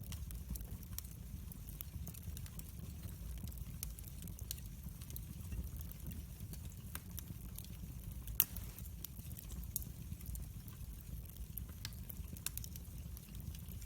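Wood fire in a fireplace crackling: a steady low rumble of flames with frequent small pops and snaps, one louder pop about eight seconds in.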